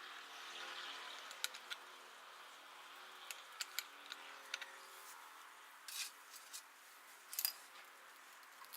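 Light clicks and clinks of hand tools and small metal parts being handled during engine work, about a dozen sharp ticks scattered irregularly over a faint hiss.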